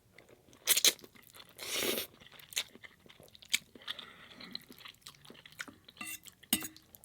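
Close-miked eating: crunchy bites and wet chewing in irregular bursts, loudest about a second in and again near two seconds.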